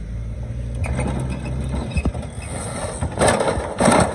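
An engine runs with a low steady hum for about two seconds, then a riding lawn mower drops off a truck's tailgate without ramps: a sharp knock, then two loud crashing impacts near the end.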